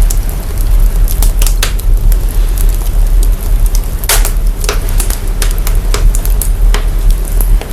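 Crackling wood fire put through bass-boosting signal processing: a deep, steady sub-bass rumble with sharp crackling pops scattered irregularly over it.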